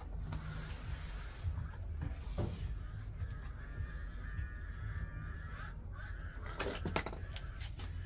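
Birds calling in the background over a steady low hum, with a few sharp clicks about seven seconds in.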